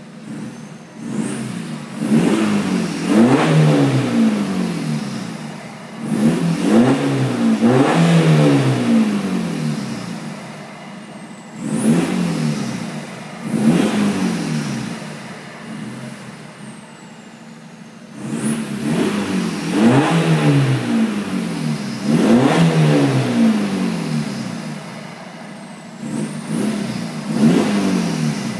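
Mk6 Jetta TDI's 2.0-litre four-cylinder common-rail diesel revved again and again, about eight times, through a 3-inch stainless turbo-back exhaust with the DPF deleted. Each rev climbs and falls back to idle.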